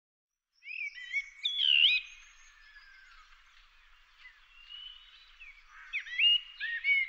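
Birds chirping and whistling: a cluster of quick chirps and short pitch glides in the first two seconds, a quieter stretch with a faint hiss and one long falling whistle, then more chirps near the end.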